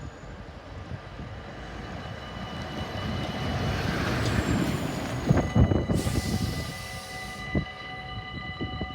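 A train passing close by: the rumble of the wheels on the rails builds to a peak about halfway through, with a few heavy knocks, then eases. From about halfway, a steady held tone with several overtones sounds over it.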